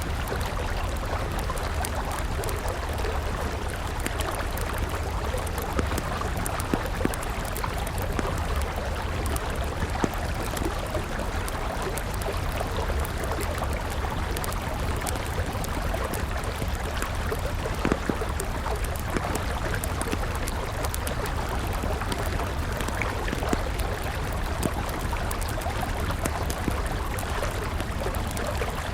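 Steady rush of a flowing river, with a wood campfire crackling over it. Frequent small sharp pops are scattered throughout, and a few of them are louder.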